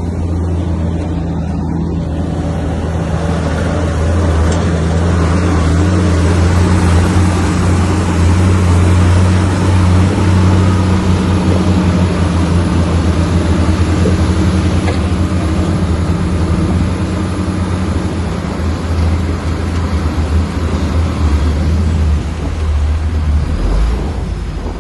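Heavy diesel engine of earthmoving machinery running with a steady low drone. It grows louder about four seconds in, as if working under load, with a rough mechanical clatter over it.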